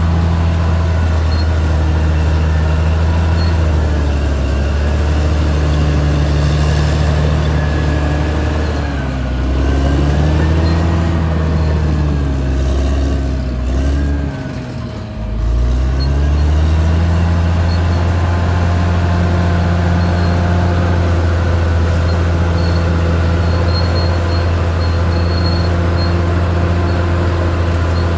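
Caterpillar D6R XL bulldozer's diesel engine running, its engine speed dipping and rising several times around the middle, with a brief drop about halfway through before settling back to a steady run.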